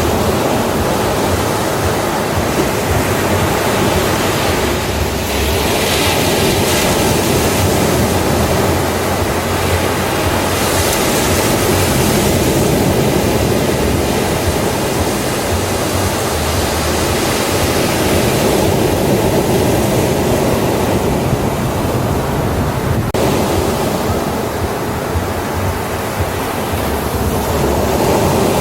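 Ocean waves breaking and washing on a beach: a continuous rush of surf that swells and eases slowly, with a louder, hissier wash a few times.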